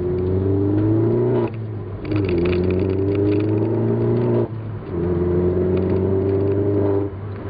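Vauxhall Corsa VXR's turbocharged 1.6-litre four-cylinder accelerating through the gears, the engine note rising steadily in each gear and dropping at gear changes about one and a half and four and a half seconds in. It breathes through a REMUS-style rear exhaust section and gives a loud, slightly raspy note.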